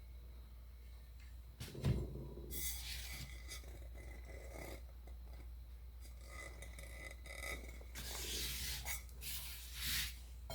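Faint handling noises of objects being shifted and rubbed on a work surface, with a light knock about two seconds in and more scuffing near the end.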